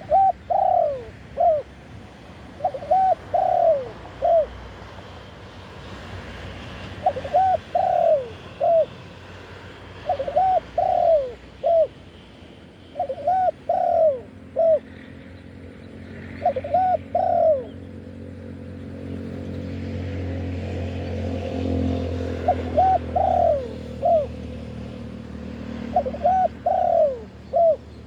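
Spotted dove cooing: a three-note phrase, two longer notes and a short last one, repeated eight times about every three seconds. A low rumble swells and fades in the second half.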